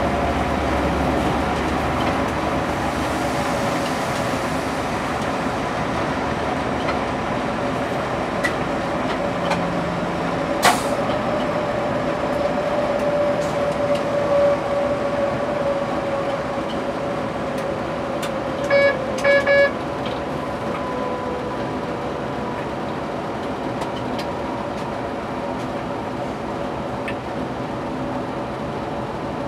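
Passenger train running steadily, heard inside the driver's cab: a continuous rumble with a sustained whine that drifts slightly in pitch. There is a sharp click about 11 seconds in, and three short tones in quick succession a little before 20 seconds.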